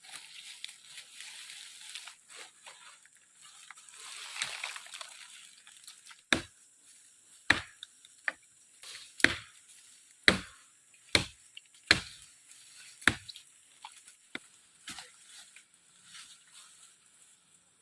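Chopping with a blade: about eight sharp single strokes, roughly one a second, after a few seconds of water sloshing.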